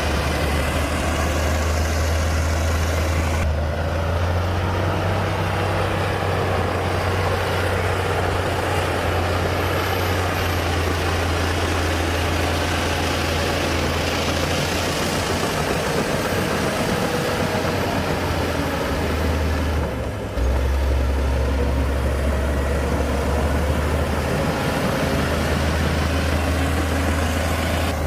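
Heavy diesel earthmoving machinery running steadily: a deep engine drone under a spread of mechanical noise, with a brief dip and abrupt change about twenty seconds in.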